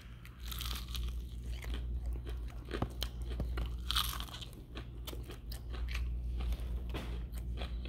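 Biting into and chewing a crispy fried chicken wing close to the microphone: irregular crunches and crackles of the breaded skin, the loudest bites about three and four seconds in.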